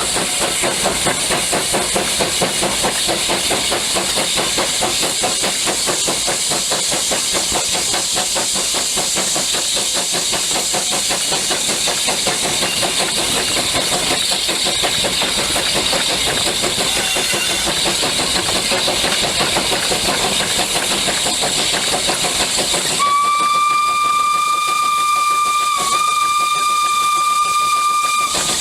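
Steam locomotive running with a fast, even beat of exhaust over steady hiss, then its whistle blows one long steady note for about five seconds near the end, with a brief dip midway.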